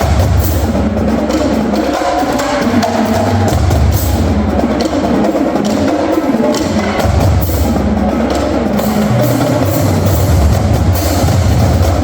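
Music driven by drums: many sharp, clicking stick and rim hits over low bass notes held for a few seconds at a time.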